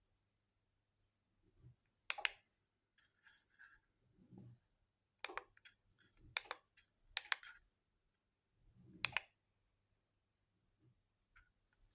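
A handful of sharp clicks spaced irregularly over several seconds, with soft low thumps in between and a faint steady hum underneath.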